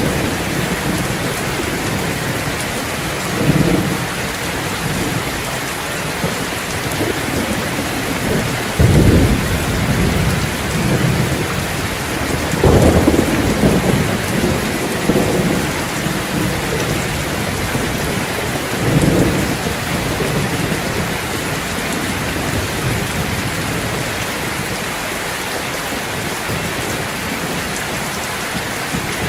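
Steady heavy rain with low rolls of thunder. The loudest rumbles come about 9 and 13 seconds in, with smaller ones near 3 and 19 seconds.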